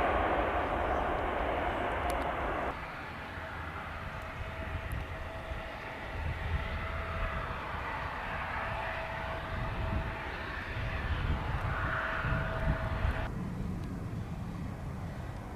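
Boeing 757-300 jet engines running after landing: a steady jet rush with a thin constant whine. The sound cuts off abruptly about three seconds in and drops to a quieter, duller rumble near the end.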